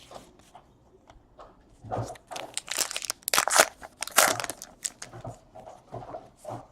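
Plastic card-pack wrappers crinkling and tearing as baseball card packs are ripped open, in irregular rustling bursts that are busiest in the middle.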